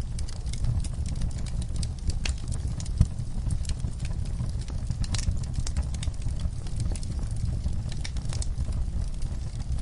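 Wood fire in a fire pit, logs and coals crackling with irregular sharp pops over a steady low rumble. The loudest pop comes about three seconds in.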